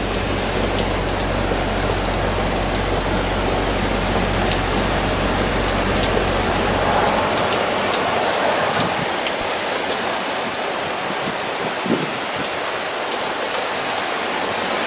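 Steady heavy tropical-storm rain falling and striking surfaces, with many small sharp drop hits scattered through it.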